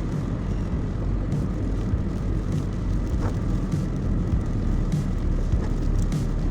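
Car driving along a highway: a steady rumble of road and engine noise with a few faint ticks.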